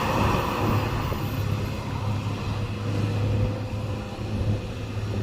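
Loaded Chinese-built dump truck running downhill: a steady low engine drone with a faint steady higher whine over it.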